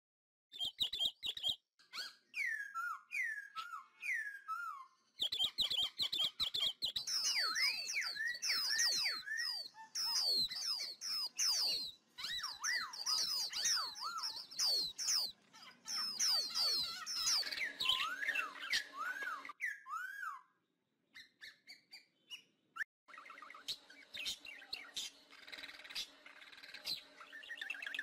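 Birds chirping and calling, many short swooping calls overlapping, mixed with sharp clicks. The calling stops suddenly for a couple of seconds late on and then returns fainter.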